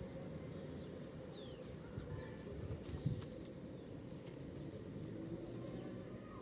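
Wild birds at a feeding spot: thin, high calls sliding down in pitch in the first two seconds, then a few faint taps over a steady low background hum.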